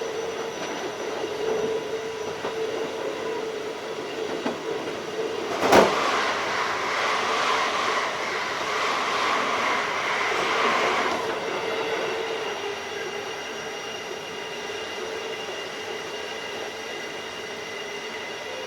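Keikyu 1500 series field-chopper-controlled electric train running, with a steady hum. A sharp bang about six seconds in is followed by a louder rushing noise for about five seconds, which then eases off.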